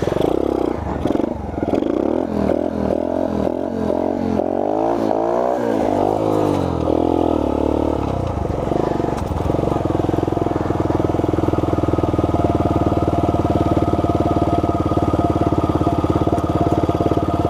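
Honda 50R's little 49cc engine under way, picked up from the rider's helmet. For the first eight seconds or so its pitch rises and falls as the throttle changes, then it settles into a steady cruising note.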